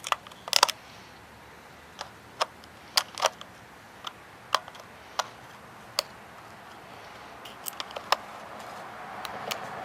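Irregular sharp metallic clicks and knocks, about a dozen, loudest in a quick cluster about half a second in: an oil filter's cut-open steel canister and its internals being knocked and pried at to free the stuck filter element.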